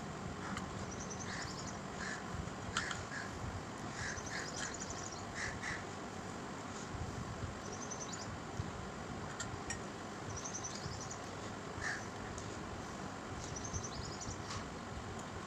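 Birds calling: short high chirping trills repeating every second or two, with some lower short calls, over a steady background hiss.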